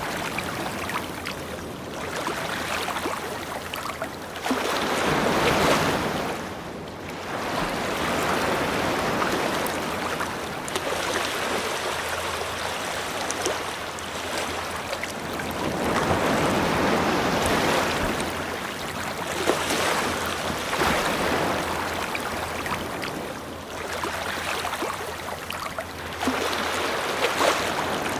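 Ocean waves breaking and washing up a beach, the surf swelling and receding every few seconds.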